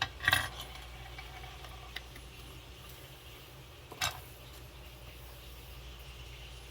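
A few sharp clicks and a short clatter of small hardware and tools being handled on a workbench. The loudest clatter comes just after the start and another click comes about four seconds in, over a steady low hum.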